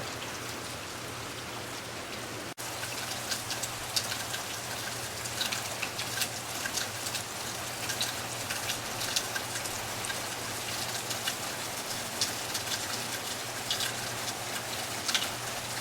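Steady rain falling, with many separate drops pattering close by; the sound breaks off for a moment about two and a half seconds in.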